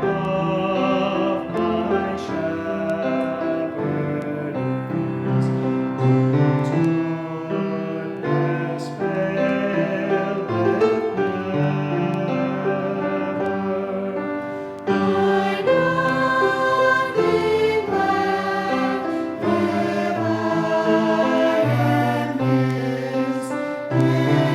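Choir singing a hymn with keyboard accompaniment, growing louder and fuller about fifteen seconds in.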